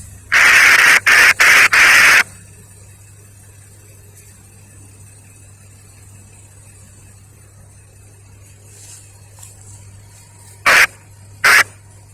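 Railroad scanner radio squelch static: a cluster of loud hissing bursts that switch on and off abruptly, then two short bursts near the end, over a low steady hum.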